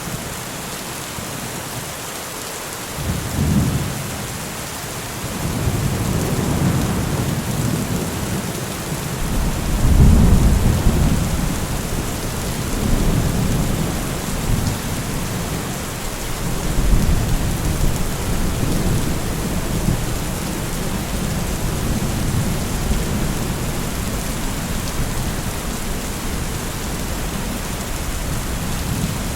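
Steady heavy rain with rolling thunder. A first low rumble comes about three seconds in, and the thunder is loudest around ten seconds in, then swells again a few times while the rain hiss goes on.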